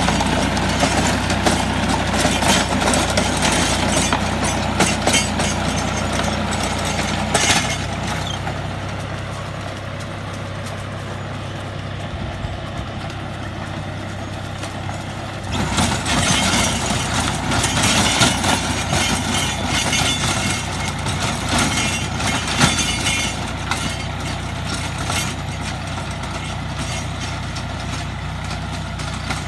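Tractor engine running steadily while it pulls a rotary tiller. It drops off somewhat about eight seconds in, then grows louder again about halfway through, with more clatter over the engine note.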